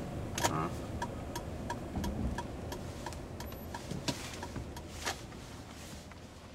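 Steady, even clicking inside a car cabin, about three ticks a second, over a low running rumble, with a few louder knocks in between. It fades away near the end.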